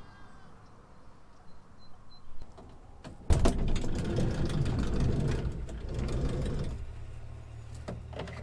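Road traffic: a motor vehicle's engine and tyres become loud about three seconds in and stay loud for a few seconds, then fall back to a steady low engine hum.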